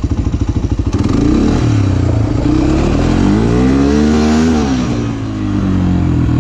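Motorcycle engine ticking over with an even pulsing beat, then revving up about a second in, its pitch rising to a peak and dropping back before settling.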